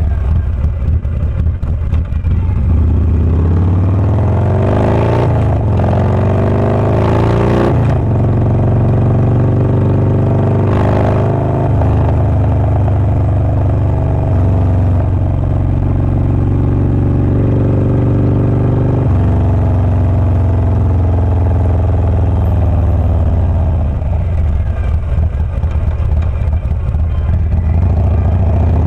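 Harley-Davidson Low Rider S's Milwaukee-Eight 117 V-twin with a Wood Performance 777XE cam, running under load: the revs climb for a few seconds, then drop suddenly about eight seconds in, as at a gear change. The engine then holds a steady pitch, with another step in pitch a little past the middle.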